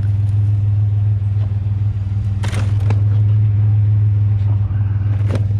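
Truck engine running with a steady low drone, while the truck rolls slowly down the street. A brief sharper sound cuts in about halfway.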